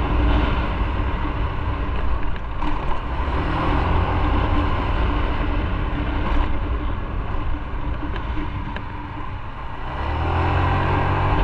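Motorcycle engine running on the move, with wind noise over the microphone. The engine eases off slightly, then grows louder again about ten seconds in.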